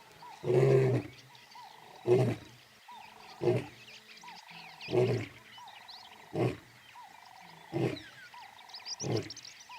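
A male lion roaring through a full bout: one long, deep roar near the start, then a run of shorter grunting roars about every second and a half, growing fainter. It is his territorial call announcing his presence.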